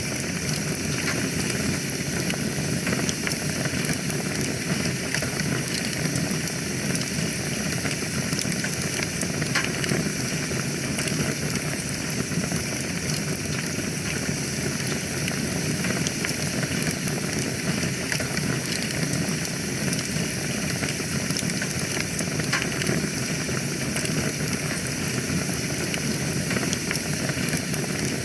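Wood fire burning in a fireplace: a steady hiss of flames with frequent small crackles and pops.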